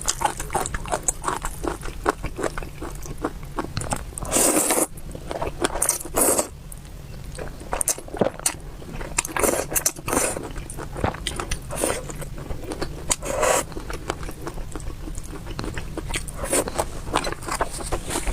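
Close-miked eating sounds: chewing and biting with many quick wet mouth clicks, and about half a dozen louder, half-second noisy bursts spread through.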